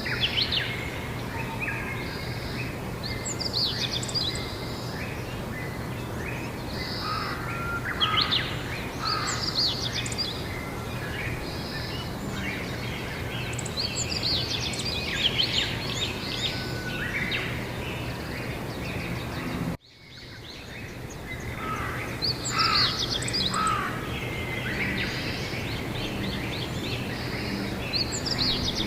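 Several songbirds singing and chirping in repeated bursts over a steady low background hum. About twenty seconds in, the sound drops out for an instant and fades back in.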